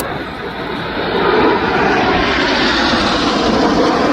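BAE Hawk T1 jets with Rolls-Royce Adour turbofans flying by in display. The loud jet rush swells about a second in and then holds steady.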